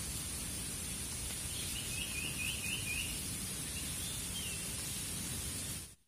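Forest ambience: a small bird gives a quick run of about five short chirps, starting about a second and a half in, then one more call about four seconds in, over a steady high hiss.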